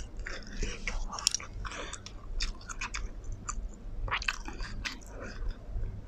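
Close-miked mouth sounds of eating black bean noodles and fried braised pork: wet chewing, smacking and lip clicks, with sips from a glass in the second half.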